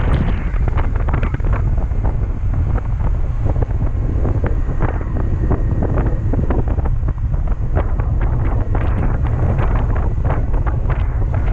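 Heavy wind buffeting on the microphone of a moving motorcycle, a loud, unbroken rumble with irregular gusty crackles, burying the engine.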